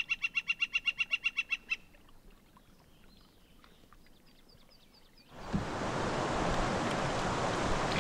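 A bird calls a rapid run of clear, evenly repeated high notes, about eight a second, which stops about two seconds in. About five seconds in, the steady rush of river current takes over.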